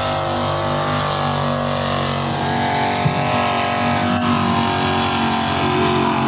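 Off-road mud truck's engine running hard at high, fairly steady revs, with the pitch rising a little about halfway through. A brief sharp knock is heard about three seconds in.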